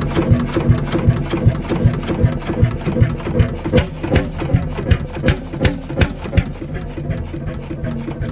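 Fairbanks Morse YHB 25 hp two-stroke diesel engine running slowly, its separate firing beats about three a second, coming unevenly for a few seconds in the middle.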